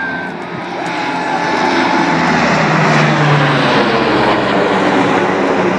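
Blue Angels' Lockheed C-130 Hercules four-engine turboprop flying past, a heavy propeller drone that builds to its loudest around the middle, its pitch sagging slightly as it passes.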